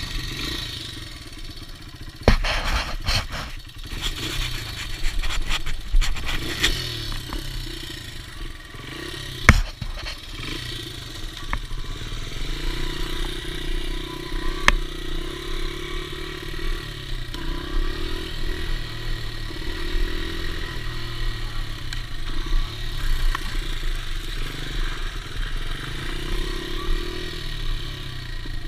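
Dirt bike engine running and being revved, its pitch rising and falling over and over. Sharp knocks and rattles come in the first ten seconds.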